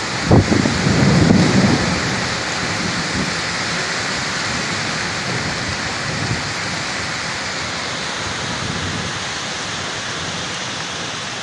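Heavy rain pouring steadily in a windstorm. A low rumble comes in the first two seconds.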